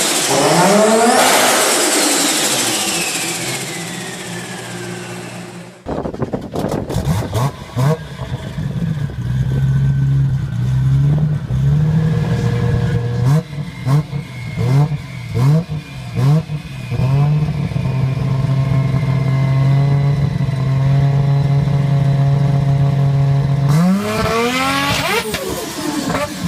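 Modified Nissan Skyline R34 GT-R's twin-turbo straight-six revving hard as the car moves away and fades, its pitch dropping. After a cut the engine is blipped repeatedly with sharp exhaust pops, settles to a steady idle, then revs up sharply near the end.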